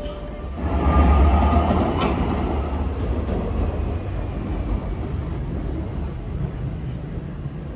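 A train running past on the line: a loud low rumble with rail noise builds about half a second in, then eases to a steady rumble. There is a sharp click about two seconds in.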